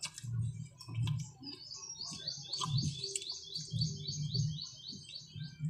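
A small songbird singing a fast run of repeated, high, downward-sliding chirps, about four or five a second, for roughly three and a half seconds starting about two seconds in. Soft chewing sounds and a few clicks run underneath.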